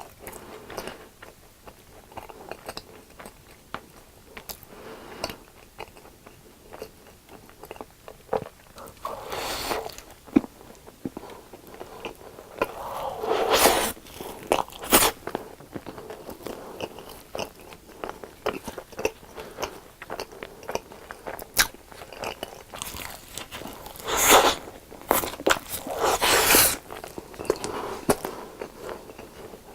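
Close-miked eating of crunchy fried food: crisp bites and crunches over steady chewing clicks, with louder bursts of crunching about 10 s, 14 s and 25 s in.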